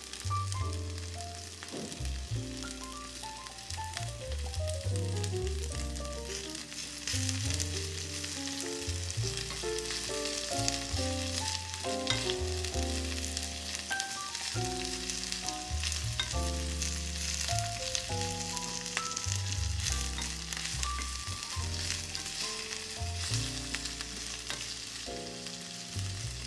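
Pac choy and carrot tops sizzling as they sauté in a small pan, stirred now and then with a wooden spoon. Background music with a melody over a bass line plays over the sizzling throughout.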